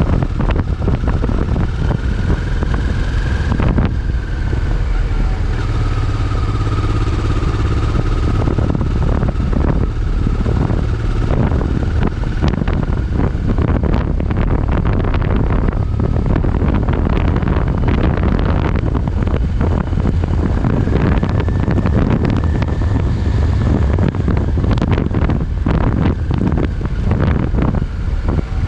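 Motorcycle riding along at steady speed, engine and road rumble under heavy wind noise on the microphone, with a faint whine that rises and falls.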